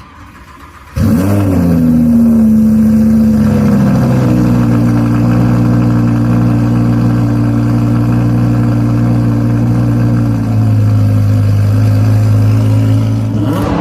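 Audi R8 V10 Plus's 5.2-litre V10, breathing through an aftermarket exhaust, cold-starts about a second in with a quick flare of revs. It then settles into a loud, steady high cold-start idle that drops slightly a few seconds later. A rev begins right at the end.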